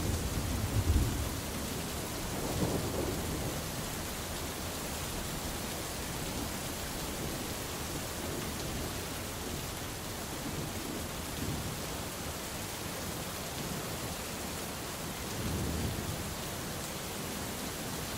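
Steady rain falling, with low rumbles of thunder: the strongest in the first second, fainter ones about two and a half seconds in and near sixteen seconds.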